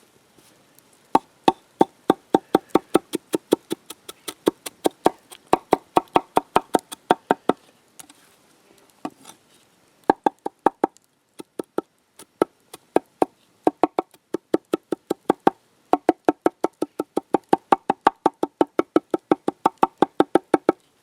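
Knife chopping quickly on a wooden cutting board, about four to five strokes a second, in several runs with short pauses between them.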